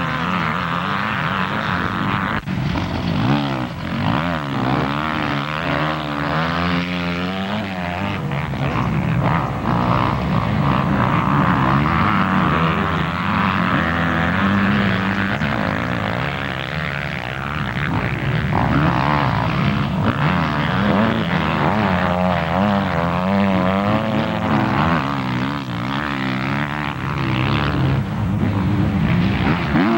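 Several motocross bikes' engines revving up and down as they race, their pitches rising and falling and overlapping.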